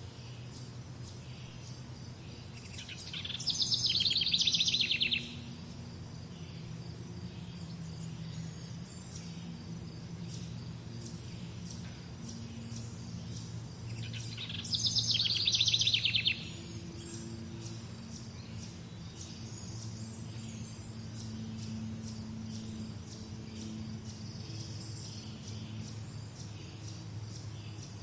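Morning birdsong: one bird sings a loud, fast trilled phrase of about two seconds, twice, some eleven seconds apart, over fainter high chirping and a low steady hum.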